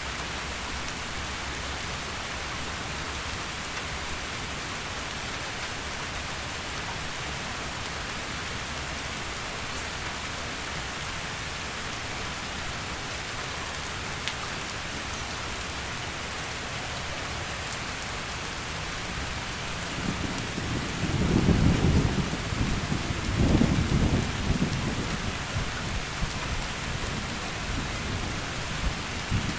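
Heavy rain falling steadily, with a rumble of thunder about two-thirds of the way through that swells twice and then fades over several seconds.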